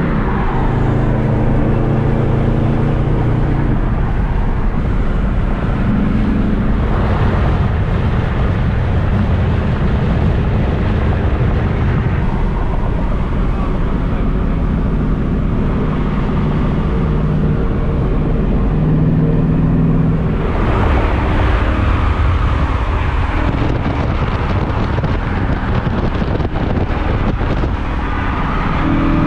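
A muscle car's engine running while driving, under a constant noise of tyres and wind. Its note holds steady for a few seconds at a time, then shifts up or down in pitch.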